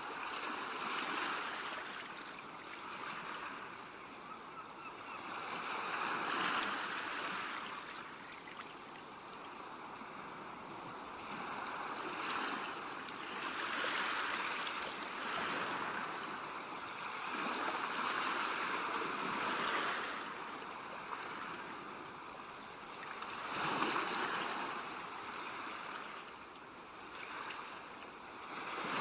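Ocean waves breaking and washing ashore, the surf swelling and fading every few seconds.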